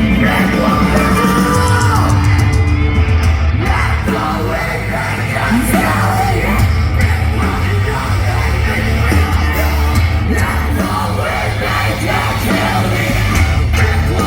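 A heavy Southern metal band playing live at a festival: distorted guitars, bass and drums, with screamed and yelled lead vocals over them.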